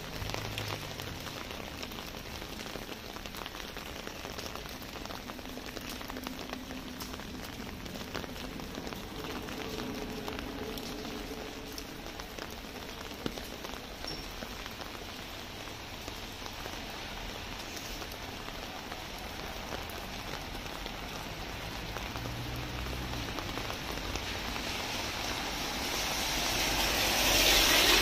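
Steady light rain falling on a wet street, with many small drops ticking close by. Near the end the hiss of a car's tyres on the wet road swells up loud.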